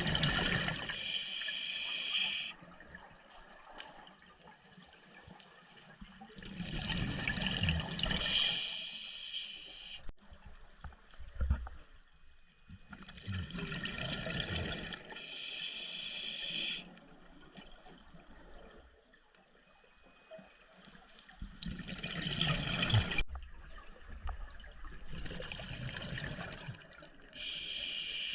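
Scuba diver breathing underwater through a regulator: a hissing breath through the regulator and a rush of exhaled bubbles, repeating about every six to seven seconds, roughly five breaths.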